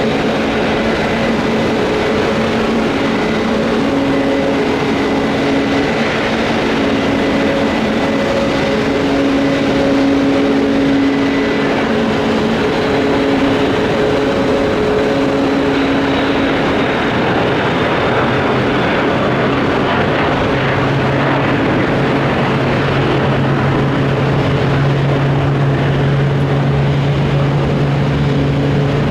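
Dassault Falcon 7X business jet taking off, its three turbofan engines running at take-off power: a steady jet roar with several whining tones, and a lower tone growing stronger about two-thirds of the way in.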